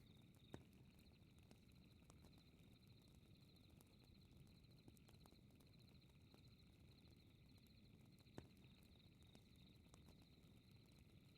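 Faint fireplace ambience: a low, steady fire rumble with scattered small crackles and two sharper pops, one just after the start and one near the end. A steady high chirping trill runs underneath.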